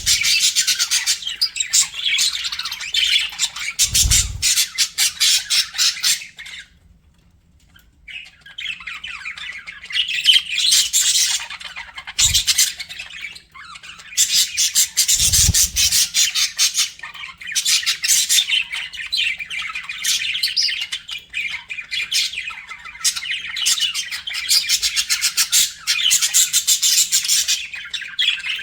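Budgerigars chattering and warbling in a dense, fast stream of chirps and squawks, which breaks off for about a second a quarter of the way in. A few soft low thumps sound under the chatter.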